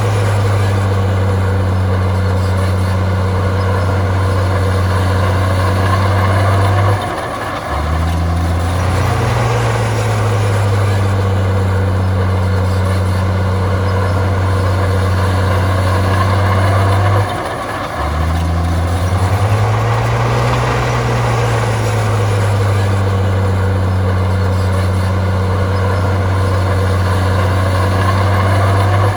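A heavy diesel bulldozer engine running steadily under load. About every ten seconds it briefly drops off, then its pitch swells up and settles again, as it changes between pushing and reversing.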